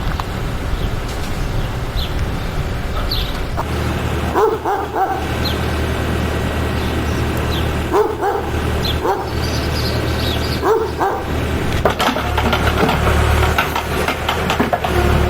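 A dog barking several times, in short bursts spread through, over a steady low rumble.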